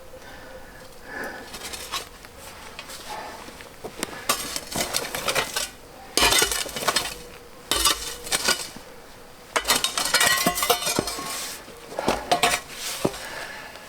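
Metallic clinking and scraping in several bouts of one to two seconds each, starting about four seconds in.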